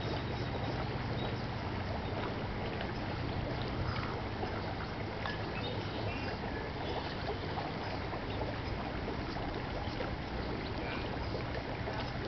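Mallard ducks dabbling in the water: many small splashes and drips over a steady rush of water and a low hum.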